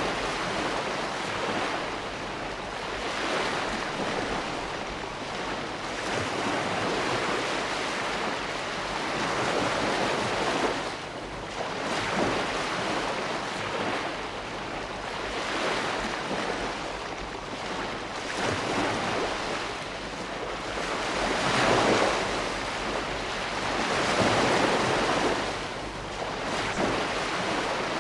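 Ocean surf: a continuous rush of waves breaking and washing ashore, swelling and easing every few seconds.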